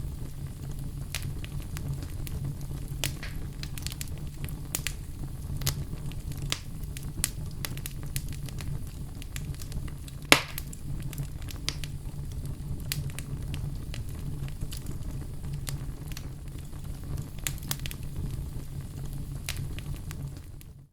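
Wood fire crackling in a fireplace: scattered pops and snaps over a low steady rumble, with one loud sharp pop about halfway through. The sound fades out at the very end.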